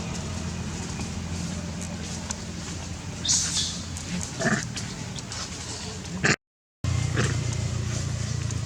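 A monkey gives a short, high-pitched squeal about a third of the way in and a brief lower call soon after, over a steady low hum.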